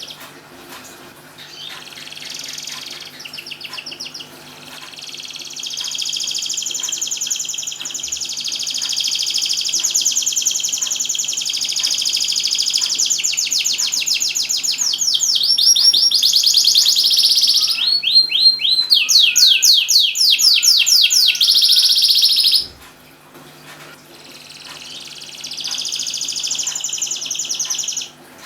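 Domestic canary singing a long, loud song of fast trills and rapidly repeated notes, breaking off for a moment about three-quarters of the way through, then starting again.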